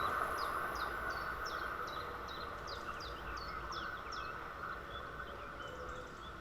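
A passing train's running noise fading away as it recedes. Over it a small songbird sings a quick series of short downward-sliding chirps, about three a second, which gets softer and sparser after a few seconds.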